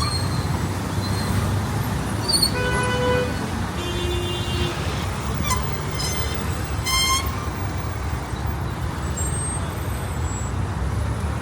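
Outdoor city ambience: a steady low rumble of road traffic, broken by a few short pitched tones about three, four and six to seven seconds in.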